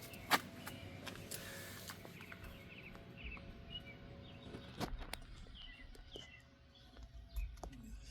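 Birds chirping in short calls, with a few sharp clicks or knocks, the loudest about a third of a second in and another near five seconds.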